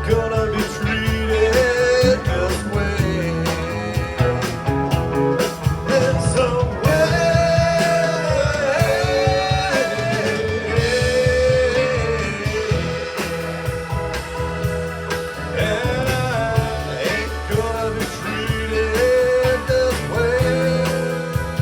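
Rock band playing: drum kit keeping a steady beat under bass and electric guitar, with a lead melody line that bends and slides in pitch.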